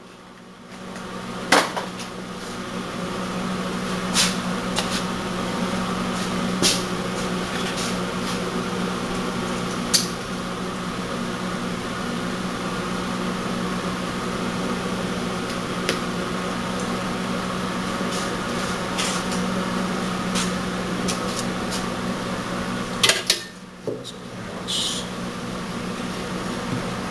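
Onan engine running at a steady speed, a constant hum with scattered light clicks. It dips briefly at the very start and again about 23 seconds in.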